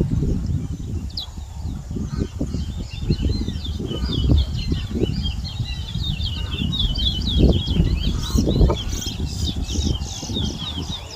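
Towa-towa (chestnut-bellied seed-finch) singing a fast twittering, warbling song of quick, short notes, almost without a break. Under it runs a steady low rumble with frequent dull thuds, which are louder than the song.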